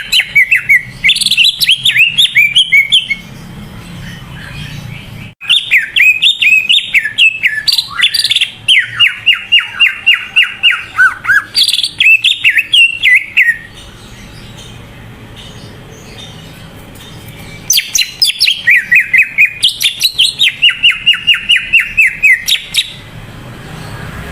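Cucak ijo (green leafbird) in full, vigorous song: fast runs of rapid chirping notes in three long phrases, with short pauses between them.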